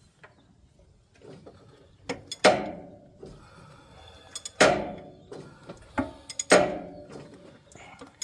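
Four loud metallic clanks about two seconds apart, each ringing briefly, with small clicks between them. They come from an Allis-Chalmers 7010 tractor's inline-six engine being turned over by hand at the crankshaft to bring a cylinder to valve crossover for valve adjustment.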